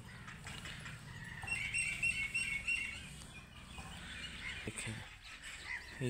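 Small birds chirping in quick runs of short high notes, busiest from about one and a half to three seconds in, over a faint low rumble.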